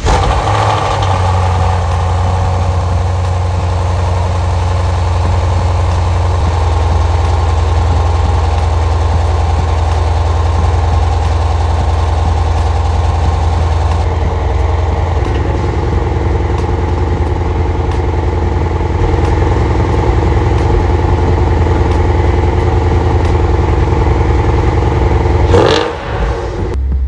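2015 Ford Mustang GT's 5.0 V8 idling steadily and loudly through a Remus active exhaust with aftermarket headers, just after a cold start. Its pitch holds level with no revving, apart from a brief louder burst near the end.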